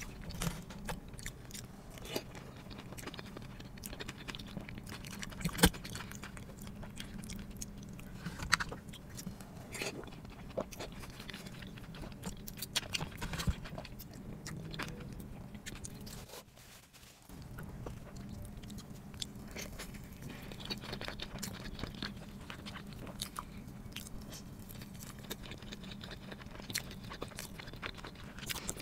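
Close-miked mukbang eating sounds: chewing with many small wet mouth clicks and a few sharper crunches, over a low steady hum. The sound dips quieter for a moment a little past halfway.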